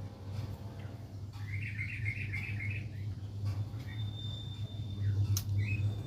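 Small birds chirping: a rapid run of chirps about a second and a half in, then a few short single chirps, over a steady low hum. A sharp click comes just past five seconds in.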